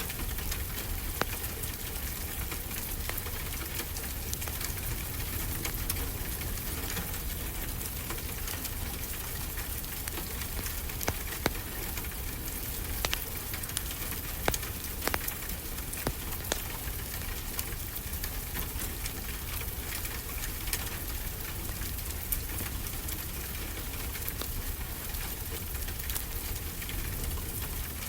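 Steady rain hiss with a low rumble, overlaid by the scattered pops and crackles of a wood fire, a few louder pops near the middle.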